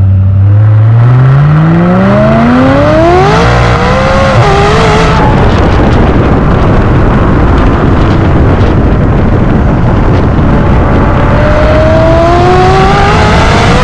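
McLaren 570S twin-turbo V8 through an Armytrix decat and valved exhaust, accelerating hard and very loud. The pitch climbs steadily for about four seconds and wavers as the revs drop around four to five seconds in. A stretch of dense rushing noise without a clear engine note follows, then the pitch climbs again near the end.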